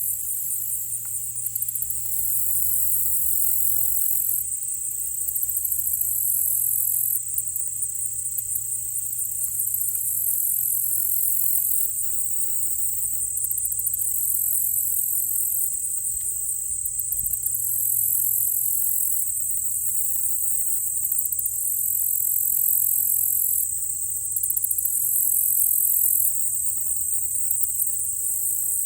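Steady, high-pitched chorus of crickets and other insects, with a pulsing trill that swells and drops out every few seconds. A faint low hum runs underneath.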